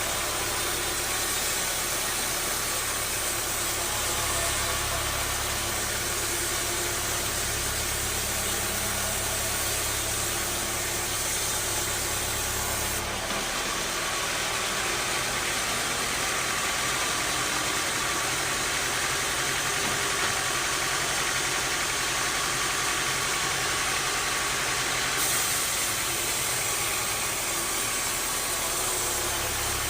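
Bandsaw sawmill running with a steady engine-and-machine noise. The sound changes abruptly about 13 seconds in, when the low rumble drops away, and shifts again near 25 seconds.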